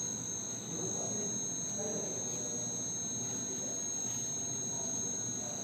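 A steady high-pitched whine of two unchanging tones, insect-like, holding level over faint background hiss.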